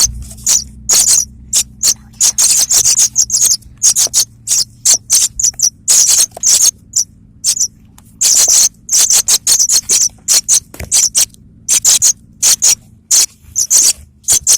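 Young apung tanah, a pipit kept as a 'local branjangan', calling: rapid runs of short, high, sharp chirps, several a second, with brief pauses between runs. A faint steady low hum lies underneath.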